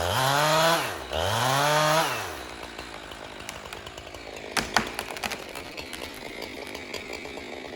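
Jonsered two-stroke chainsaw revved up twice in quick succession, the pitch climbing and falling each time, then running at a lower, steadier level with a few sharp knocks about five seconds in.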